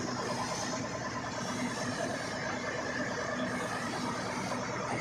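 Heavy vehicle engine running steadily, a constant drone with no change in speed.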